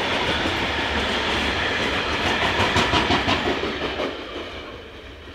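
Freight train of covered wagons rolling past, its wheels clicking over the rail joints. About four seconds in, the last wagon moves off and the sound fades steadily away.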